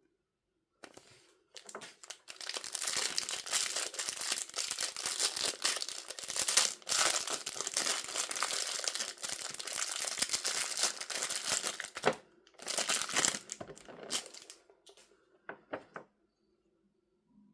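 Packaging crinkling and being torn open by hand: a dense run of crackling for about ten seconds, then a few shorter bursts and a couple of clicks near the end.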